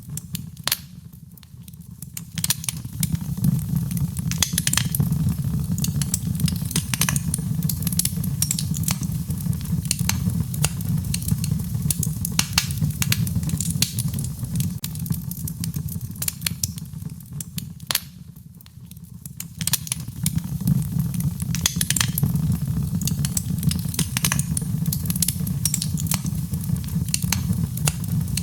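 Wood fire crackling in a fireplace: frequent sharp pops and snaps over a low, steady rumble of the flames. The sound briefly drops away about a second in and again at about eighteen seconds.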